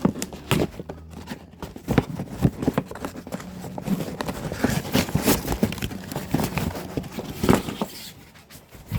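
Packaging rustling and a run of irregular knocks and taps as a pack of firework canister shells is opened and handled, with sharper knocks about five seconds in and again near the end.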